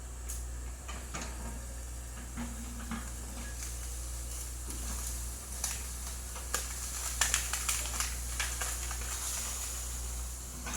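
Excavator working in a river: a steady low engine hum under a crackling, hissing noise, with a cluster of sharp clicks and rattles from debris in the second half.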